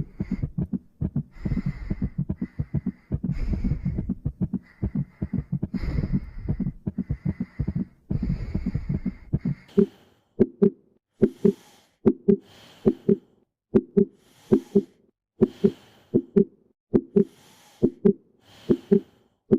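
Recorded heartbeat sounds: for the first half, fast, crowded beats under a steady whooshing noise, then about ten seconds in a change to a clean, slower lub-dub heartbeat, about one pair of beats a second with quiet gaps between.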